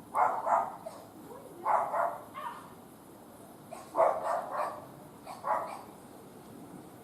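A dog barking repeatedly in short groups of two or three barks.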